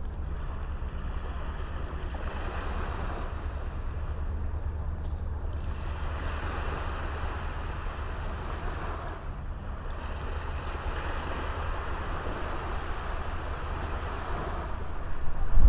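Sea waves washing onto a small beach, the surf swelling and fading every few seconds, with a steady low wind rumble on the microphone.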